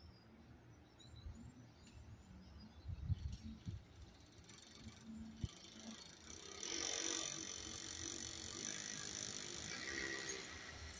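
Class 156 diesel multiple unit approaching: from about four seconds in its sound rises into a steady hiss with a low engine hum beneath it. Birds chirp at the start, and a few low thumps come around three seconds.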